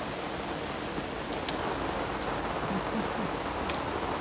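Steady rain falling on wet paving stones and garden plants, an even hiss with a few sharp ticks scattered through it.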